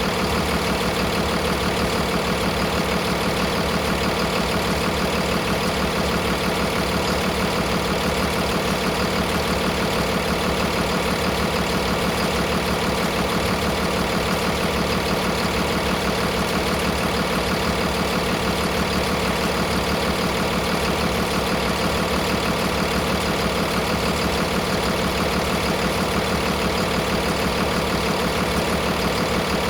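2012 Cummins ISB6.7 inline-six turbo-diesel engine idling steadily.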